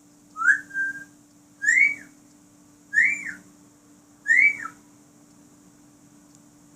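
African grey parrot whistling four times, about a second and a quarter apart. Each whistle is a quick rise and fall in pitch, except the first, which rises and then holds one note.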